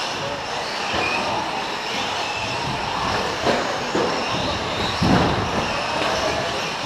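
Several electric four-wheel-drive short course RC trucks racing, their brushless motors whining high over a steady noise, with a few sharp knocks.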